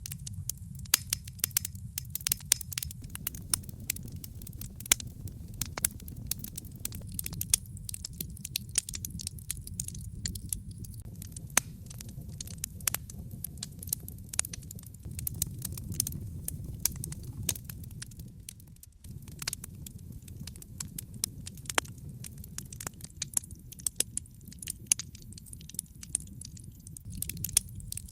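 A fire burning in a fireplace, crackling with many irregular sharp pops and snaps over a steady low rumble. The rumble briefly drops about two-thirds of the way through.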